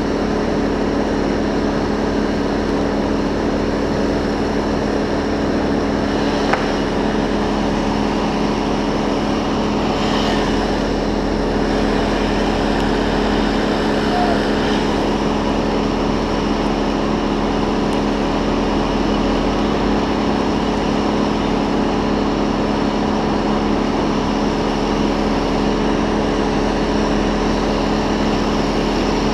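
An engine running at a steady speed, giving an even drone with a few steady tones that hold their pitch throughout.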